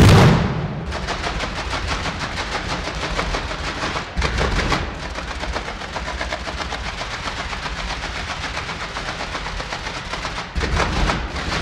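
Fireworks going off: a loud shell burst at the start, then a long rapid string of sharp reports, many a second, from fast-firing aerial fireworks, with heavier bangs about four seconds in and again near the end.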